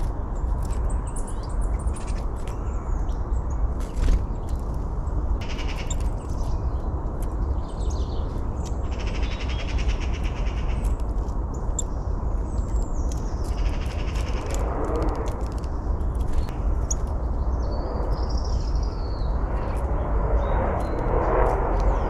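Small birds chirping and calling, short high notes scattered throughout over a steady low rumble. A couple of harsher, lower calls come about two-thirds of the way in and again near the end.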